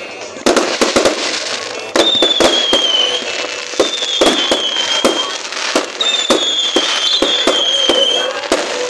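Fireworks going off: a rapid, irregular run of sharp bangs and cracks. High whistles that slide slightly downward cut in about two seconds in and return twice, each lasting about a second.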